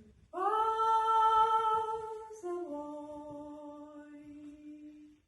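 Unaccompanied high voice singing or humming two long held notes: the first lasts about two seconds, then it steps down to a lower note held for about two and a half seconds.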